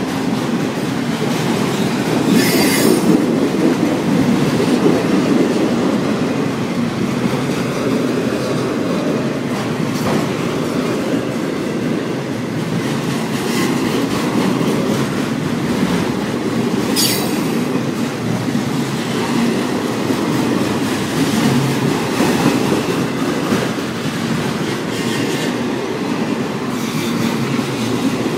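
CSX autorack freight cars rolling past at speed: a loud, steady rumble of steel wheels on the rails, with two brief high screeches from the wheels.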